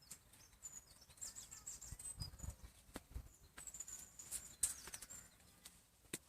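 Faint, scattered high-pitched bird chirps, with a few soft low thuds about two to three seconds in.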